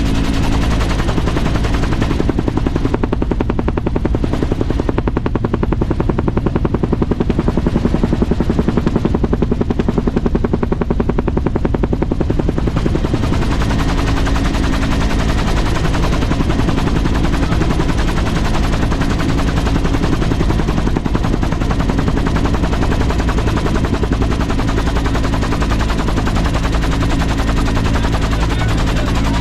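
A loud engine running close by, with a steady, rapid pulsing beat throughout.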